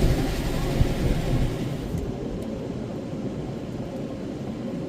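Steady low rumble of a car sitting at a car wash entrance, heard from inside the cabin; the higher outside noise dulls about two seconds in and the sound turns quieter.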